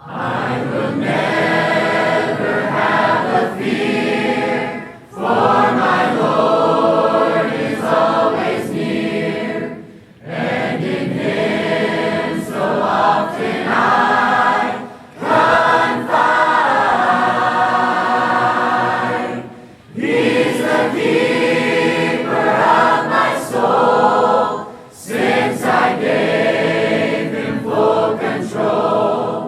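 Choir singing together in sustained phrases, with a short break between phrases about every five seconds.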